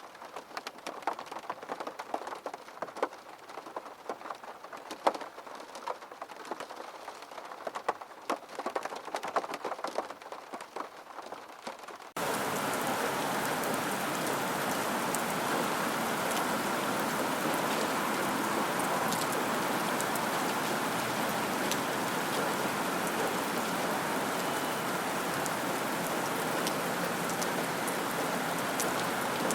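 Rain: at first scattered separate drops pattering over a light hiss. About twelve seconds in it switches abruptly to heavier, steady, dense rain.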